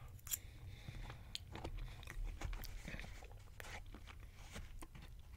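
A man chewing a mouthful of beef power bowl close to the microphone: soft wet mouth clicks and light crunching. Toward the end, small clicks and scrapes as a metal fork digs into a paper bowl.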